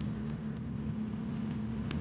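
Motorcycle engine running steadily under way, a low hum with road and wind noise, and a faint click near the end.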